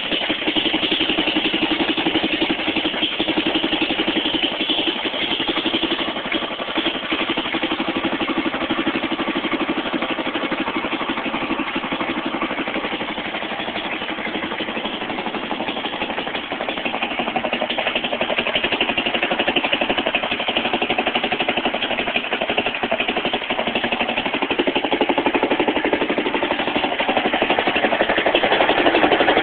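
Fairbanks-Morse Z Style D 1½ hp hit-and-miss gasoline engine running steadily.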